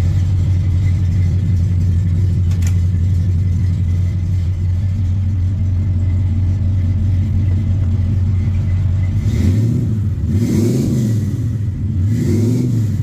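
1971 Chevrolet C20 pickup's engine idling steadily, then revved in short blips, each rising and falling in pitch, from about two-thirds of the way in.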